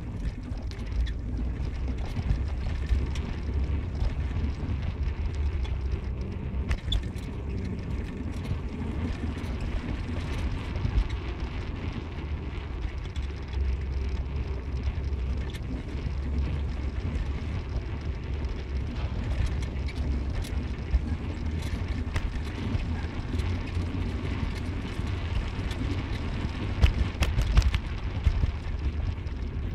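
Car on the move: a steady low rumble of engine and road noise, with scattered small knocks and rattles.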